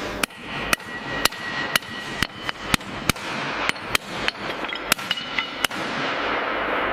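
Hammer striking metal, about two sharp blows a second, over a steady hiss of workshop noise.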